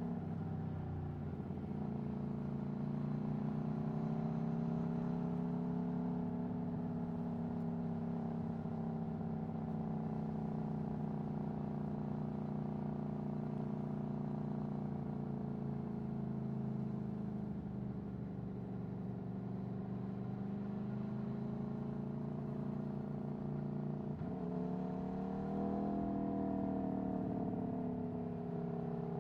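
Aprilia Tuono V4 1100's 65° V4 engine, breathing through an Akrapovic Racing exhaust, running steadily on the road with its pitch slowly rising and falling as the throttle changes. Its pitch jumps up sharply about 24 seconds in, then eases back down.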